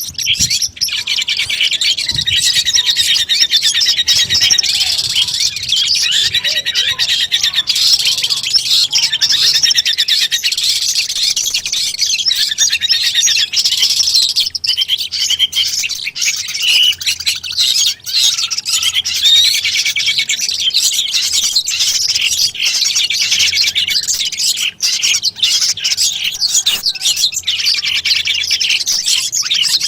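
Long-tailed shrike (cendet) singing a rapid, unbroken stream of high chirps and trills.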